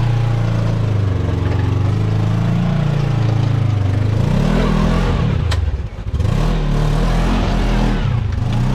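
Side-by-side UTV engine running steadily, then revving up and down about halfway through, with a single sharp knock in the middle of the revving.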